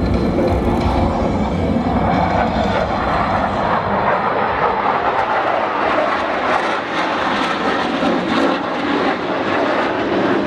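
Fixed-wing aircraft engine noise from an airshow flying display: a steady, dense rushing noise that holds level throughout.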